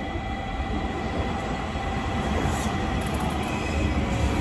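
JR Kyushu 821 series electric commuter train approaching and running past close by, its wheels rumbling on the rails and growing louder as it nears, with a brief high wheel squeal about halfway through.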